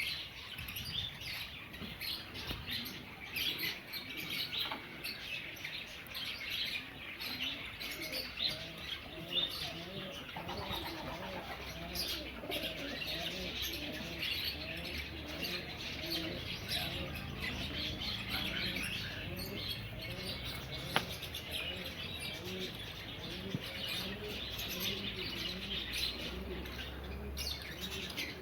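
Many small aviary birds chirping densely and without pause. From about eight seconds in, doves coo over and over beneath the chirping.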